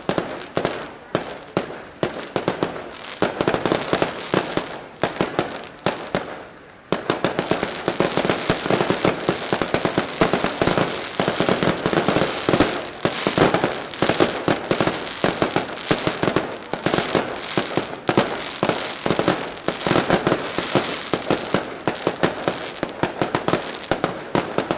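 Daylight fireworks: a dense, rapid barrage of firecracker bangs, many a second. The barrage becomes thicker and louder suddenly about seven seconds in.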